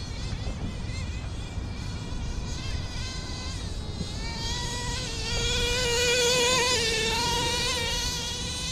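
Redcat Earthquake nitro RC truck's small two-stroke glow engine running at high revs with a high buzz, its pitch wavering as the throttle changes; it gets louder about halfway through.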